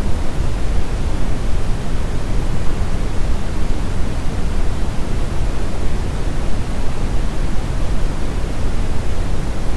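Steady brown noise: an even, deep hiss with most of its weight in the low end, with no change throughout.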